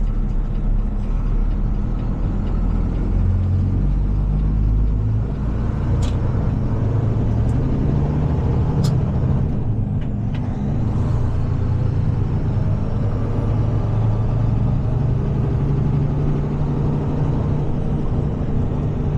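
Heavy tow truck's engine running steadily while driving, heard from inside the cab, with a few sharp clicks partway through.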